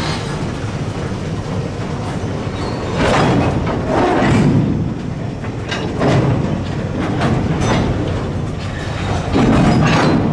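Slow-moving switching move: boxcars rolling and rumbling over the track behind an EMD SW9 switcher, its diesel running. Wheels click and clank over the rails, loudest in surges about three and six seconds in and near the end.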